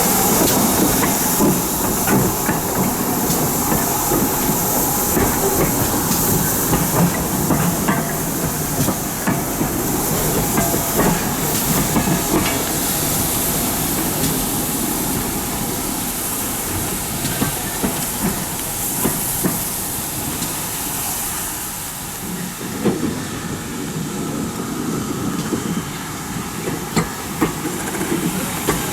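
A steam locomotive hissing steam, with scattered clanks and knocks of metal.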